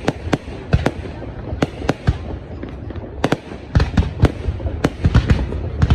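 New Year's Eve fireworks display: a rapid, irregular string of sharp bangs from bursting shells over a continuous low rumble and crackle, growing denser near the end.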